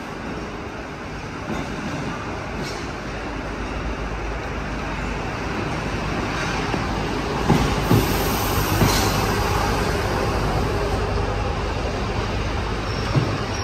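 CFM D1M diesel multiple unit pulling slowly into a station platform: a steady diesel and rolling rumble that grows louder as the train draws alongside, with a few sharp knocks about halfway through and one more near the end.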